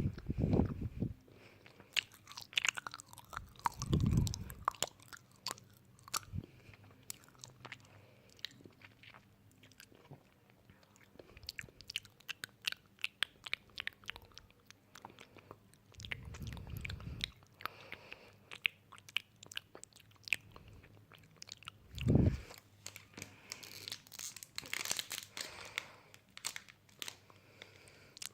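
Close-miked ASMR eating: crisp crunching bites and chewing, a dense run of sharp crackles, with a few heavier low thuds scattered through.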